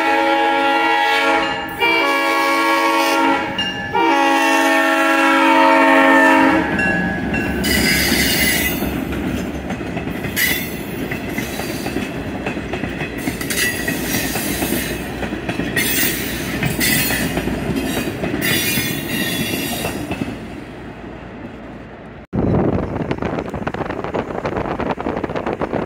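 EMD GP9 diesel locomotive's air horn blowing for a grade crossing: a long, a short and a long blast. Then passenger coaches roll past, wheels clicking over the rail joints, and the sound fades away. About 22 seconds in it cuts to steady wind noise on the microphone of a moving car.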